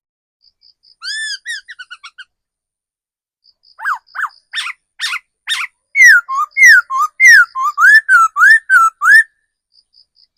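Laughingthrush singing in loud, clear whistles: a short varied phrase about a second in, a few sharp notes around four to five seconds, then a run of about seven repeated slurred whistles, each sweeping down and back up. Faint short high pips sound between the phrases.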